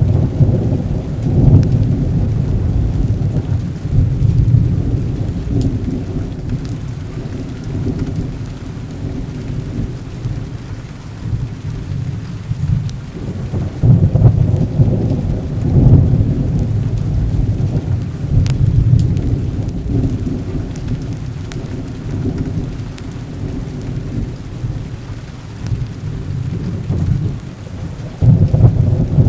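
Heavy rain falling steadily with thunder rumbling in long, low rolls. The rumble swells loudest near the start, again about halfway through, and once more near the end.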